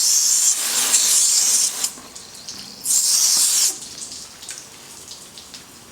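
Running water rinsing fish fillets: a steady rush for nearly two seconds, a second shorter run about three seconds in, then only faint small knocks and handling noises.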